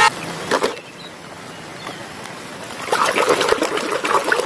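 Water splashing and trickling as a muddy toy vehicle is washed, with a couple of sharper splashes about half a second in and a run of splashing near the end.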